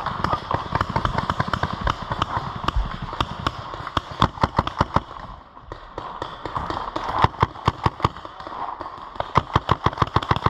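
Paintball markers firing in rapid volleys, many sharp pops a second, some loud and close, others fainter from farther off, with a short lull a little past halfway.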